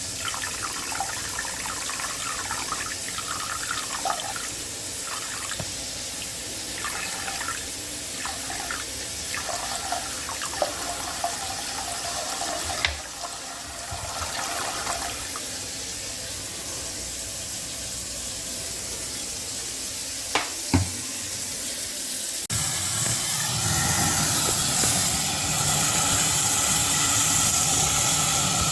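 Water running and splashing into a drain pipe, with a couple of sharp knocks along the way. The flow gets louder and fuller about three-quarters of the way through.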